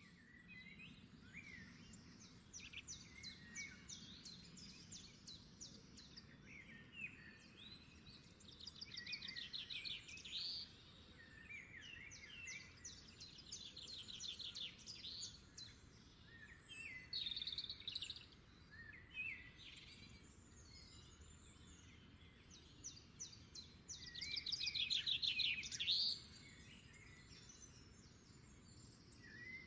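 Small birds singing: repeated rapid high trills and short chirps from several birds, the trills loudest near the end.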